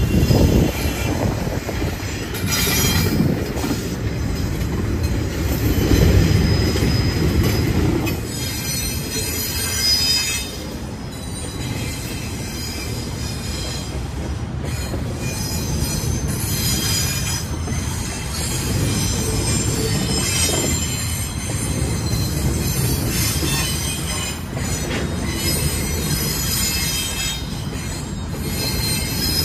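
Double-stack intermodal container cars rolling past with a steady rumble of steel wheels on rail and a high-pitched squeal of wheels, heard more clearly from about eight seconds in.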